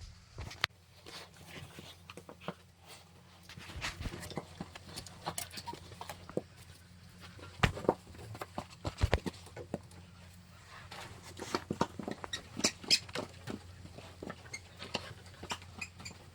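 Irregular light clicks and taps, with a few sharper knocks, over a steady low hum.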